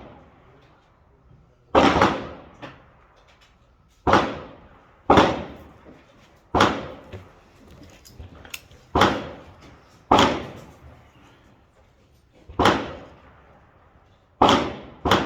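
A PSA M4-clone AR-15 rifle in 5.56 fired in slow, single shots at an uneven pace, about nine in all. Each sharp crack is followed by a short echoing tail.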